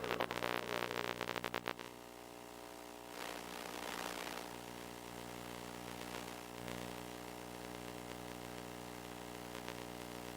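Steady electrical buzz and static hiss from an FPV quadcopter's recording. It crackles with static for the first two seconds, then settles into a steady buzz, with a burst of hiss about three to four seconds in.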